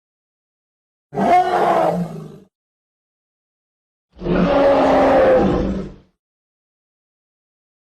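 Two separate creature roars from a sound-effect set for a giant prehistoric bear. The first comes about a second in and lasts about a second and a half. The second, about four seconds in, is longer at about two seconds. There is dead silence before, between and after them.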